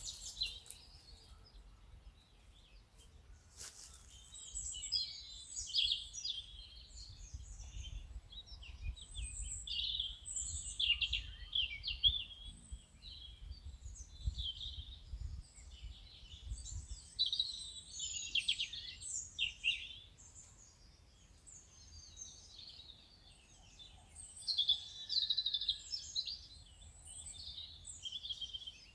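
Songbirds chirping and singing, many short overlapping calls and trills, with a faint low rumble underneath and a single click a few seconds in.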